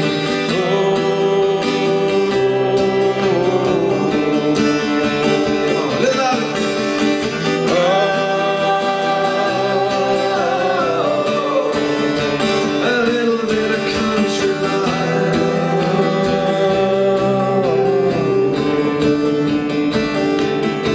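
Live folk song: acoustic guitar strumming steadily under long, held sung notes.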